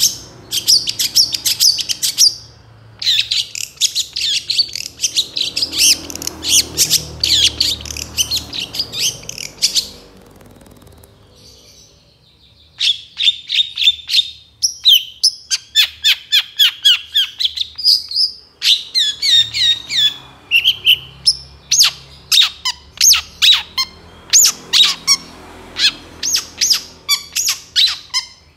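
Long-tailed shrike (cendet) singing a loud, rapid chattering song of sharp, high notes. The song breaks off for a couple of seconds about ten seconds in, then resumes as a quick run of short, clipped notes.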